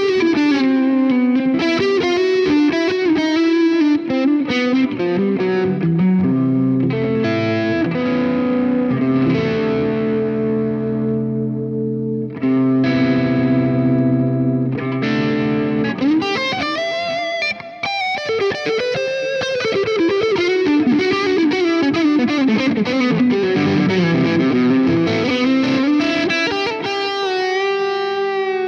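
Electric guitar played through a Joyo R-20 King of Kings overdrive pedal, a Bluesbreaker-style overdrive. It plays quick lead phrases, then sustained held chords from about seven seconds in, then lead lines again past the middle.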